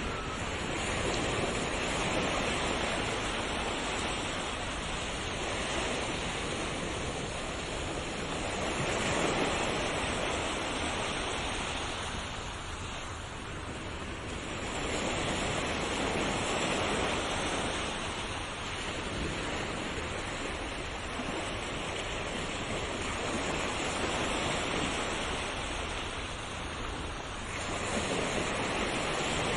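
Ocean waves breaking on a shore in a continuous wash of surf, swelling and easing every few seconds.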